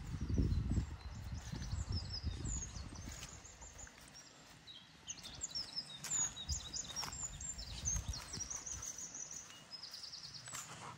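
A songbird singing: quick high chirps and short trills, with a steadier trilled phrase near the end. Under it, footsteps and rustling through grass, louder in the first few seconds.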